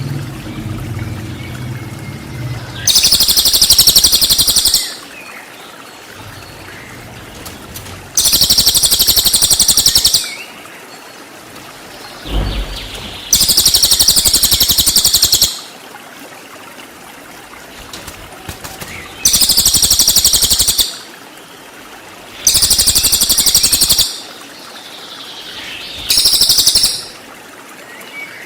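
Cililin song from a bird-song tutoring recording: six high, rapid-pulsed 'tembakan' bursts of about two seconds each, coming every four to six seconds, with only faint background noise between them.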